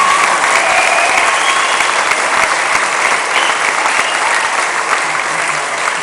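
Audience applauding loudly just after the song stops, with a few cheers over the clapping.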